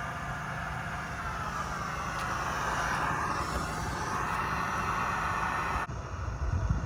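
Steady hiss of a propane camp stove burner with potatoes cooking in butter and water in the pan over it. The hiss drops off abruptly about six seconds in.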